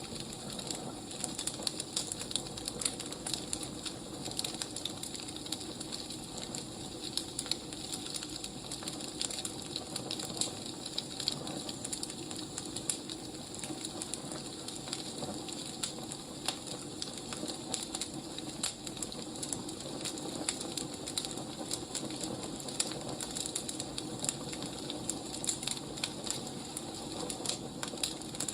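Firewood burning, with irregular crackles and pops over a steady hiss.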